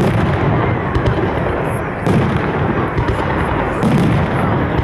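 Fireworks salute: a continuous run of bangs and booms from shells bursting overhead, over a steady rumble of overlapping blasts.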